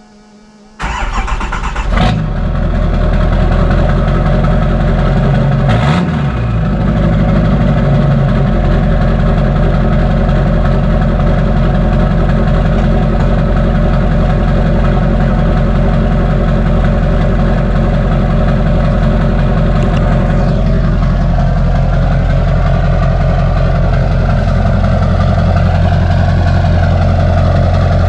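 LB7 Duramax 6.6 L turbo-diesel V8 in a GMC Sierra 3500, straight-piped with the muffler removed, starting about a second in. It flares briefly, then settles into a loud, steady idle.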